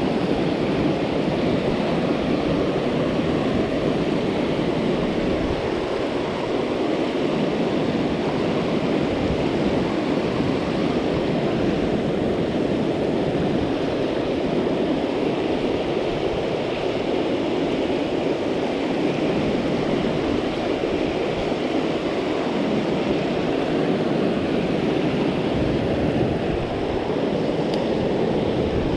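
Rain-swollen stream rushing steadily.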